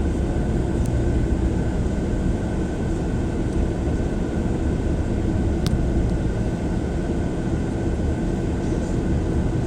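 Car driving along a road, heard from inside the cabin: a steady rumble of engine and tyre noise with a faint constant high whine. Two light clicks come about a second in and a little over halfway through.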